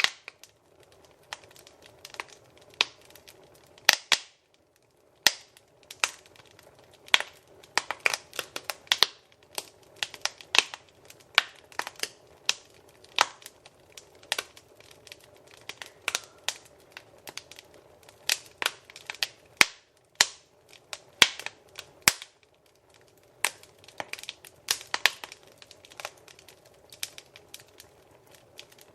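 Wood fire crackling in a fireplace: irregular sharp pops and snaps, some much louder than others, over a faint steady hiss of the flames.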